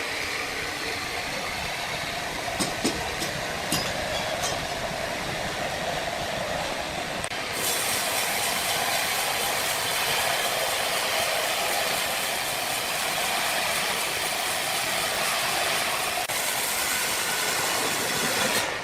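Sawmill machinery running with a steady mechanical din and a few sharp clicks a few seconds in. About a third of the way in, a brighter hiss comes in suddenly and continues.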